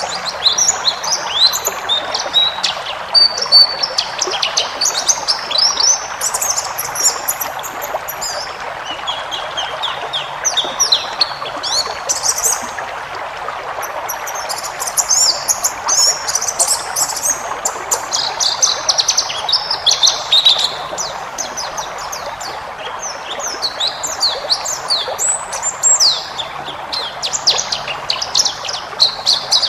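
White-eye (pleci) singing a fast, varied twittering song in dense bursts of high chirps, with brief lulls about 13 and 22 seconds in, over a steady background hiss.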